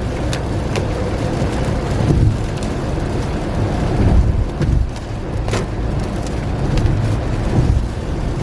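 Car driving in heavy rain, heard from inside the cabin: a steady low road rumble with the hiss of rain and tyre spray, broken by a few sharp clicks.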